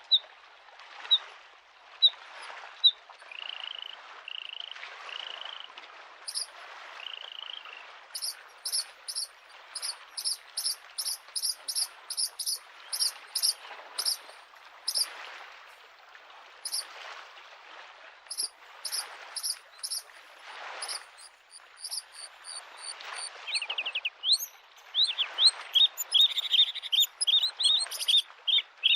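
A bluethroat singing a varied song of short repeated notes and ringing trills, quickening into a rapid run near the end, over small lake waves lapping at the shore in a soft, regular wash about once a second.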